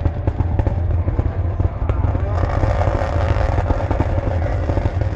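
Turbocharged rallycross Supercar engines revving hard, with rapid popping and cracking bangs from their anti-lag systems. The sound swells about two seconds in and drops off sharply at the very end.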